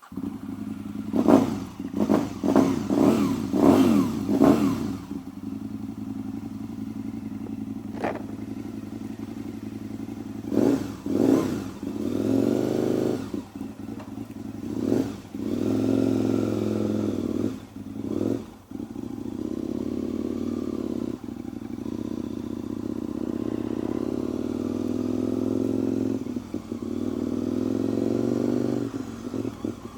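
2014 Aprilia Tuono V4's V4 engine running with a quick string of about five throttle blips in the first few seconds. Several more single revs follow over the next dozen seconds, then it settles to a steadier run with slight rises in pitch.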